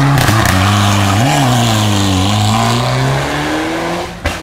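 Rally car engine working through a hairpin bend, with a short throttle blip about a second in. The engine note then dips and climbs again as the car pulls away, and fades.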